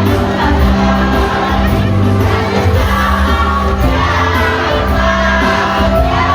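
Mixed choir singing sustained notes over a musical accompaniment with a steady bass line.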